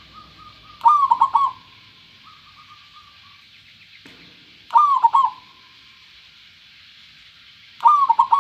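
Zebra dove (perkutut) cooing: three short phrases, each a quick run of clear notes, spaced about three seconds apart. Softer trailing trills come between the phrases.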